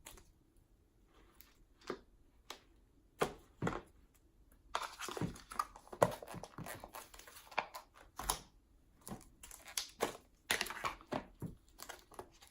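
Slime being scooped and pulled out of a plastic tub. A few sharp clicks at first, then from about five seconds in a busier stretch of sticky crackling and popping.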